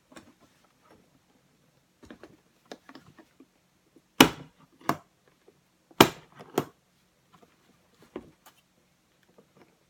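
Handling noises of a tool and its case: separate hard clicks and knocks, two loud knocks about four and six seconds in, with lighter clicks scattered around them.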